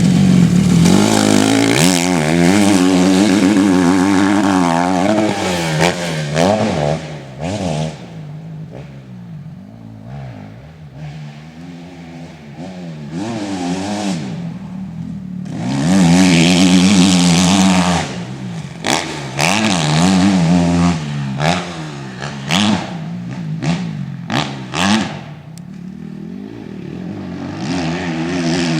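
Motocross bike engine revving up and down as it rides the track, loud at the start, fading, then loud again a little past halfway. Several sharp clicks and knocks come in the later part.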